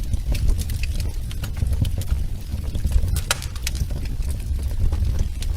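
Wood fire in a fireplace crackling: scattered sharp pops and snaps over a steady low rumble of the burning fire, with one louder pop about three seconds in.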